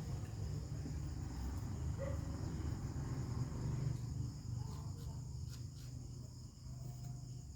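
Crickets chirping steadily in the background over a louder low, uneven hum, with a few faint clicks in the second half.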